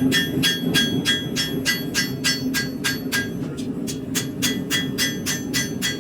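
Blacksmith's hammer striking steel on an anvil in a steady rhythm, about four blows a second, each blow with a bright ring, while a knife blade is forged. A steady low rumble sits underneath.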